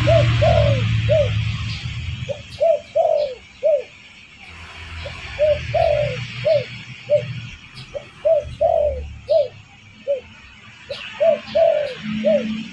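Spotted dove (derkuku) cooing: phrases of several short, rising-and-falling coos, repeated about every two to three seconds. A low rumble runs under the first two seconds and again in the middle.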